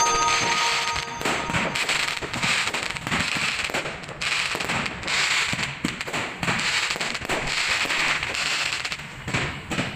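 Fireworks going off: a dense, continuous run of crackles and pops.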